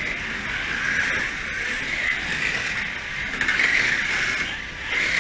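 Small race cars' motors and gears whirring as they lap, with no clear engine note, swelling and fading in level several times as cars go by.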